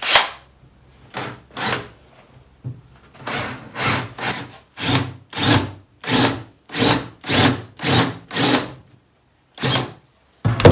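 Power drill starting a small hole in a wooden handle, run in a string of short bursts about two a second.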